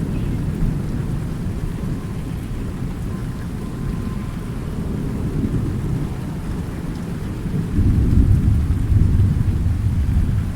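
Steady rain with a continuous low rumble of thunder; a louder roll of thunder swells about three-quarters of the way in, then eases off.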